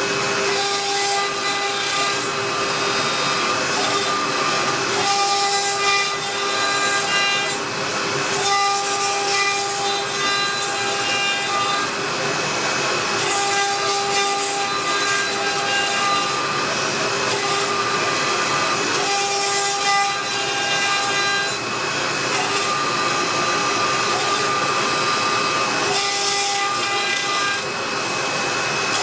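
CNC router spindle whining steadily as its end mill cuts carbon fibre sheet, with a gritty cutting noise that swells and eases every few seconds as the tool changes direction along its path.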